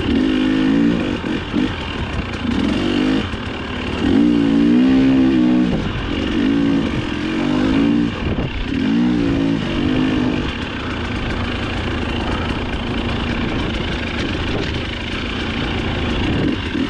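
Dirt bike engine revving up and falling off repeatedly as the throttle is worked on a trail, with about five surges in the first ten seconds, then a steadier, lower note.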